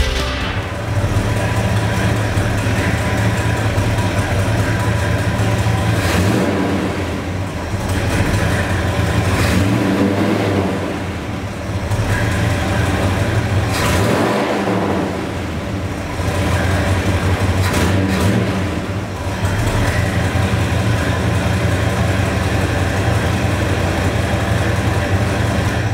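1967 Ford F100 pickup's engine running steadily, its level easing off and coming back every few seconds.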